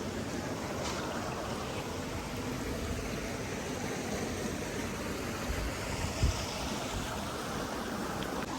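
Steady rushing of a flowing stream, with a brief low thump a little after six seconds in.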